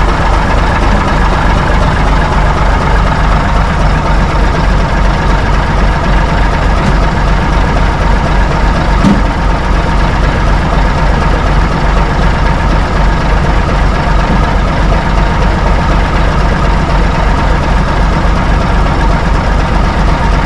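Old Mack B-model truck engine idling steadily with a deep, even beat. It sounds lazy, and the men are not sure it is a Mack Thermodyne diesel.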